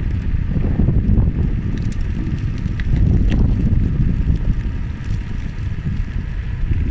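Wind buffeting the microphone of a moving bicycle rider, a steady low rumble, with a few faint clicks.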